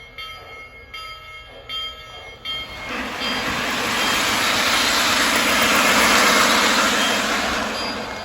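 Lionel LionChief 0-8-0 toy steam locomotive's built-in sound effects: a few faint steady tones, then a long steam hiss that swells about three seconds in and fades near the end.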